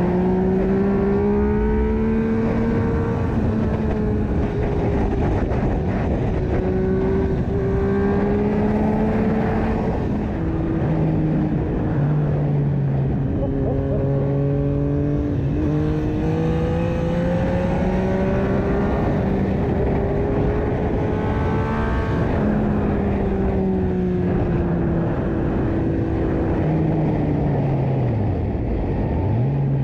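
Yamaha MT-09/FZ-09 inline three-cylinder engine through an Akrapovic exhaust, ridden and pulling through the gears: the engine note climbs steadily, drops at each shift and climbs again several times, with a sharp dip and recovery near the end, over steady wind rush.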